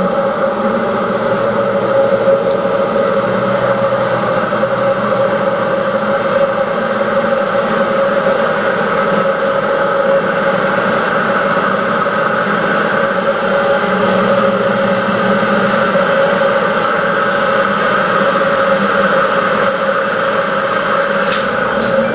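Old elevator hoist machinery running: a loud, steady mechanical hum with several held tones, a mid-pitched one the strongest.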